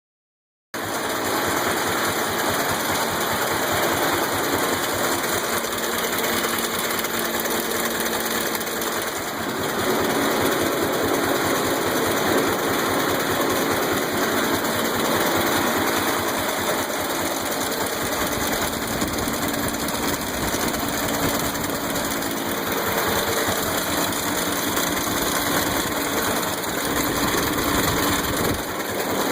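The engine of a 1912 IHC Auto Wagon, a two-cylinder high-wheeler, running steadily with a fast, even putting beat, just brought back to life after sitting and not running. It gets slightly louder about ten seconds in.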